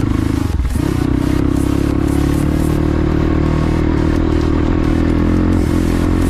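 Motorcycle engine running steadily while riding, with some clatter; the engine note breaks briefly about half a second in, then carries on.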